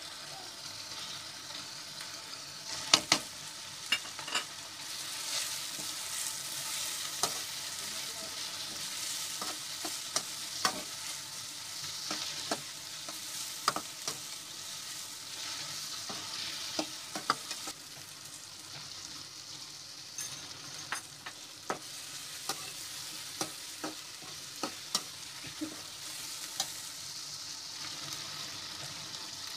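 Tomato-and-onion masala frying in oil in a metal kadai, sizzling steadily, while a metal spatula stirs it and knocks against the pan in scattered sharp clicks, the loudest about three seconds in.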